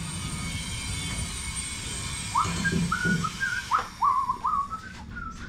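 A man whistling a tune in short, stepping notes, starting about two seconds in, over a steady mechanical hum that fills the first part.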